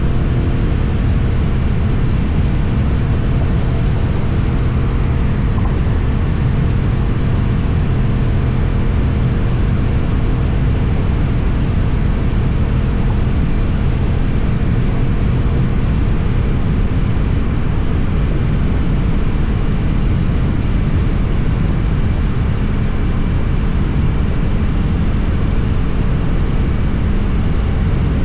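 Suzuki GSX-8TT motorcycle engine with an Akrapovič exhaust running at a steady pace while riding, a constant exhaust hum with a rush of low noise; a few higher engine tones fade out about a second in.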